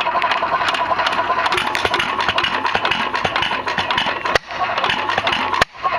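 Single-cylinder 1921 Hercules 1½ hp hit-and-miss engine running cold, with a steady fast clatter of valve and mechanism clicks. The sound cuts out twice, very briefly, near the end.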